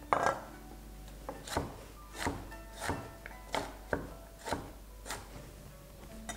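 Kitchen knife chopping a carrot into small pieces on a cutting board: about ten separate, unhurried chops, the first the loudest, over soft background music.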